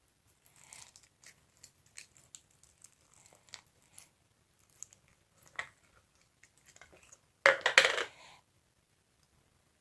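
Slime being squeezed and worked by hand, giving scattered small sticky clicks and pops, with a louder crackling squish lasting under a second about seven and a half seconds in.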